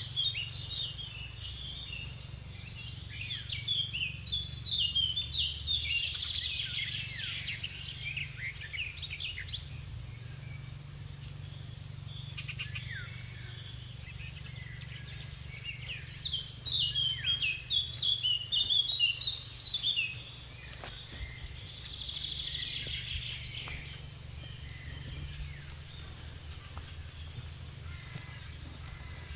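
Small songbirds singing in bursts of quick chirping phrases, loudest about a quarter of the way in and again past the middle, over a steady low rumble.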